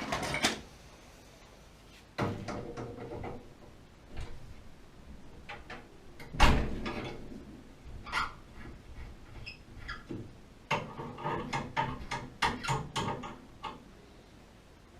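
Handling noise of objects being moved and set down: a scattered series of knocks and clicks, the loudest a heavy thump about six seconds in, then a quick run of rattling clicks near the end.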